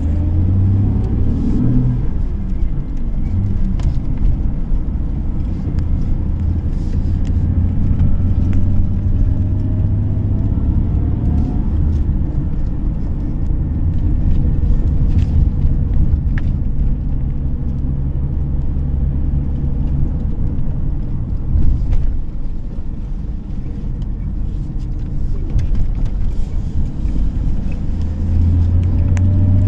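A car driving on the road: steady low engine and road rumble, with the engine pitch rising as it accelerates near the start, again about ten seconds in, and near the end.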